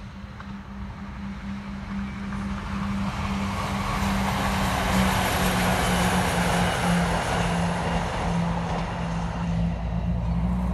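Passenger multiple-unit train passing at speed on the main line: wheels on the rails build to a loud steady rush over a low hum, then ease off slightly near the end as it moves away.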